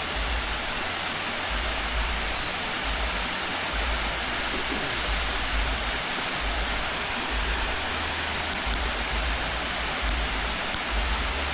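Waterfall rushing steadily, with a low rumble coming and going underneath.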